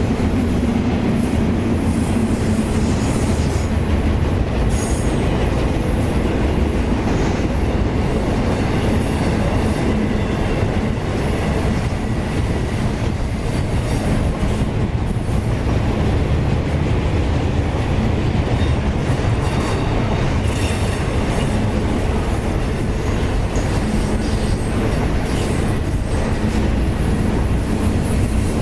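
Freight train cars rolling steadily past on the rails, with wheels clattering over the track and a thin, high wheel squeal partway through.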